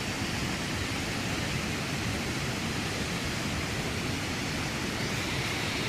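Steady rush of a large waterfall, the Keila waterfall, with its water pouring over the ledge.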